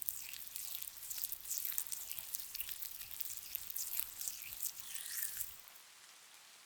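Gritty facial scrub being rubbed in close, a dense run of crackly, squishy strokes that stops about three-quarters of the way through, leaving a soft steady rain hiss.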